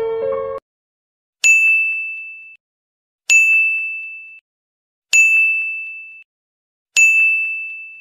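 Bell-ding sound effect for a subscribe reminder, repeated four times about two seconds apart. Each ding is a bright, single-pitched chime that rings out and fades over about a second, with silence between.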